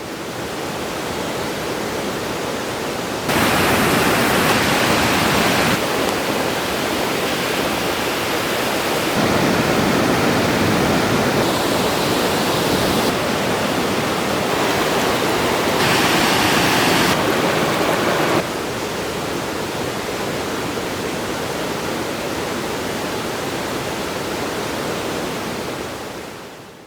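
Steady rush of falling water. Its loudness jumps up and down abruptly several times, and it fades in at the start and out near the end.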